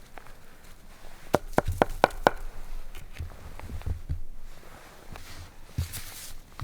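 A quick run of five sharp knocks about a second and a half in, then softer low thumps and shuffling.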